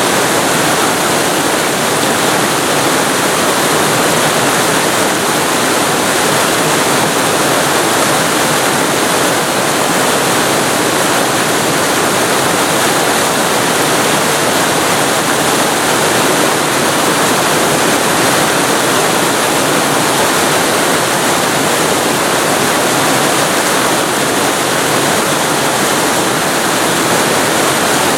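Waterfall recorded close to the falling water: a loud, steady rushing with no breaks or changes.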